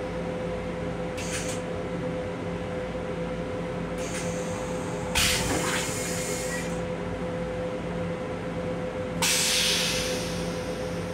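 Steady hum of an M7 electric railcar running, heard inside the car's restroom. Four short hisses of air cut in over it, the loudest about five seconds in and again about nine seconds in.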